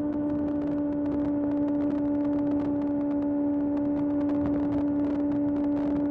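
Kawasaki ZX-6R's inline-four engine running under way at a steady pitch, with no shifts or revving.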